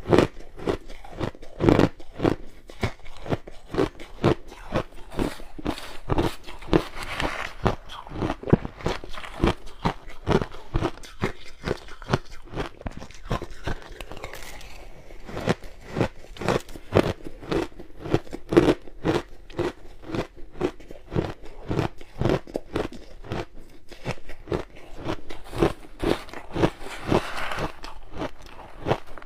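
Ice being bitten and chewed: a steady stream of sharp crunches and cracks, several a second, easing off briefly about halfway through.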